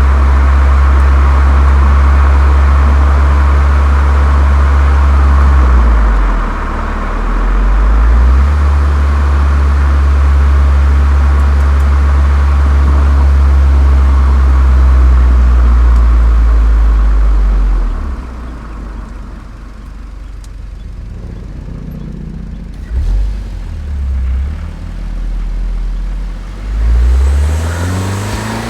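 Golf 7 GTI's turbocharged 2.0-litre four-cylinder and its Cox aftermarket exhaust holding a steady low drone at constant revs, easing off briefly about a quarter of the way in. Past the halfway mark it falls quieter, with a few short rises in revs, and the revs climb again near the end.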